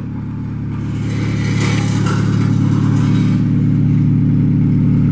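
A car engine running steadily at low revs, getting gradually louder as the car is eased slowly into position.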